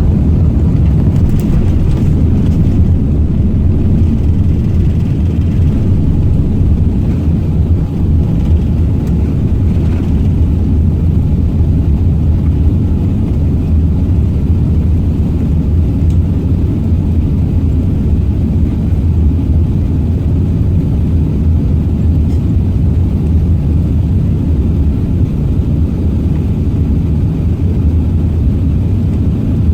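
Airbus A380-800 cabin noise heard from a window seat: a steady, deep rumble of engines and airflow with no change in pitch.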